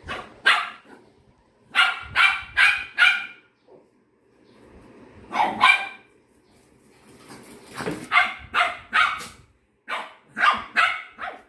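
A dog barking in runs of up to four quick barks, with short pauses between the runs.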